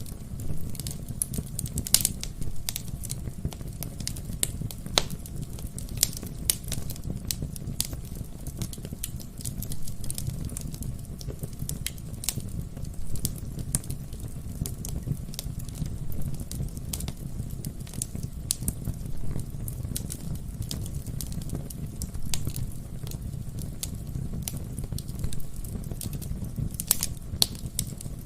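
Wood fire burning in a fireplace: irregular sharp crackles and pops from the burning logs over a low, steady rumble.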